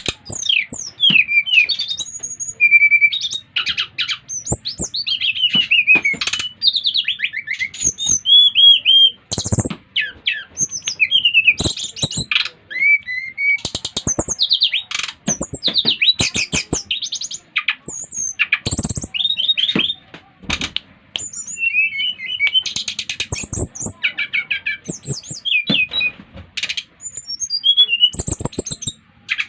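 Sikatan rimba dada coklat (SRDC) jungle flycatcher singing a rapid, varied song of short whistles, trills and chirps, mixed with sharp clicks.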